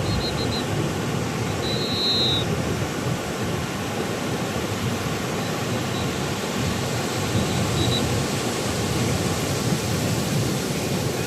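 Sea surf breaking on a beach: a steady, rumbling wash of waves, with a faint brief high chirp about two seconds in.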